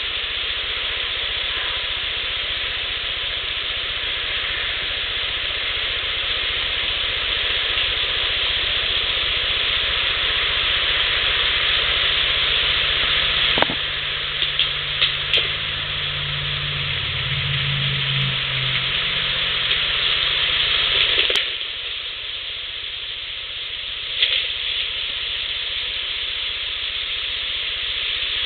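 Heavily amplified outdoor field recording: a steady hiss with a few sharp snaps or knocks, which the recordist takes for an animal stepping on branches and handling things. A low hum swells in the middle and cuts off suddenly about 21 seconds in.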